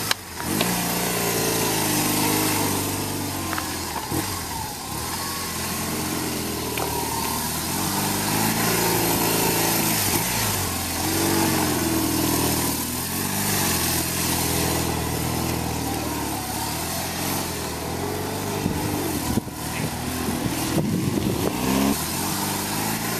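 Police motorcycle engine repeatedly throttling up and easing off, its pitch rising and falling about every two seconds, as on a tight low-speed skills course.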